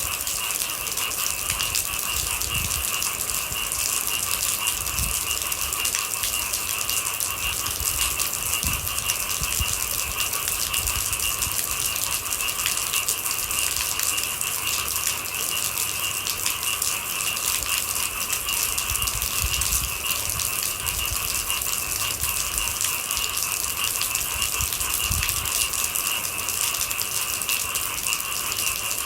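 Steady rain falling, with a constant chorus of night animals held at two steady pitches beneath it.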